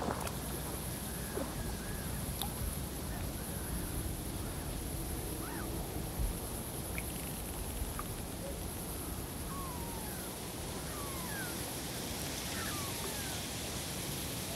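Steady field-recording hiss with scattered short bird chirps, several of them gliding down in pitch in the second half.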